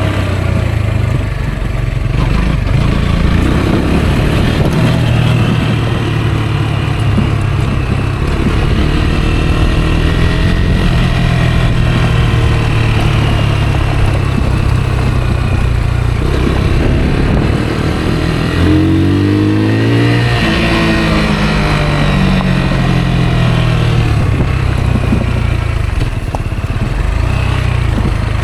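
Rieju Aventura 125's single-cylinder four-stroke engine under way, its revs rising and falling with the throttle, with one quick climb and drop in revs about two-thirds of the way through.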